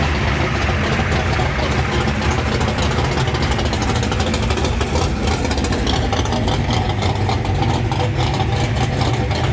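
Classic American muscle car engine idling steadily, its sound strongest in the low pitches.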